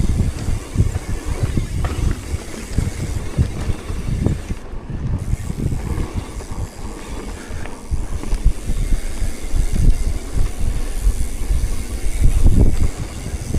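Wind buffeting the microphone while moving: an uneven, gusting low rumble that swells and drops, loudest near the end.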